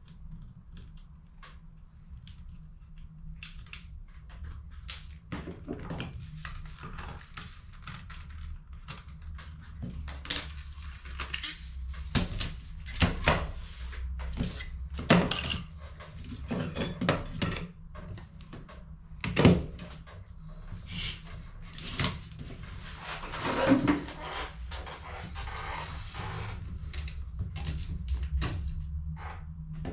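Irregular clicks, knocks and plastic rattles of HP CE285A toner cartridges being handled and worked on by hand, over a steady low hum.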